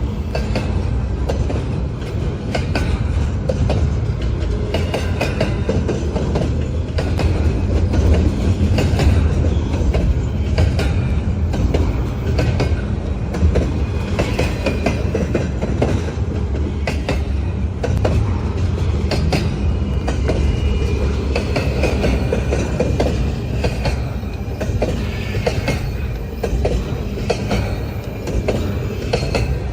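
Intermodal freight cars rolling past with a steady low rumble, their wheels clicking over rail joints again and again, and a faint high wheel squeal coming and going.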